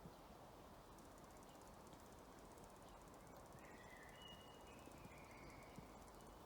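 Near silence: faint outdoor ambience with a steady low hiss, and a few faint whistled bird notes about halfway through.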